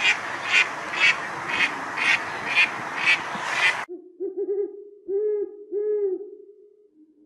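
A mandarin duck calling about twice a second over a steady hiss, cut off abruptly about four seconds in. Then a white-faced scops owl hooting: a quick bubbling run of notes, two longer hoots, and a held note that fades away.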